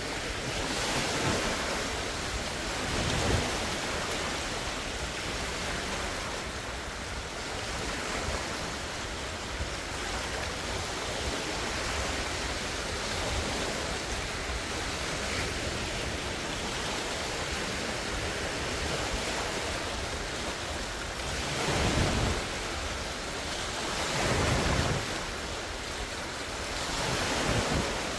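Large wind-driven lake waves washing and breaking on the shore in a continuous rush, with louder surges now and then, three close together near the end. Strong wind buffets the microphone.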